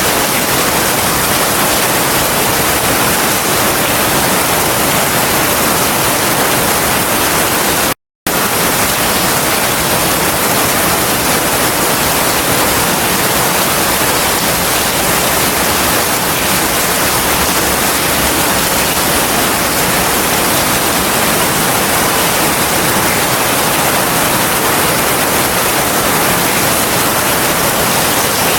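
Heavy rain falling steadily as a dense, even hiss. It cuts out completely for a split second about eight seconds in, then resumes.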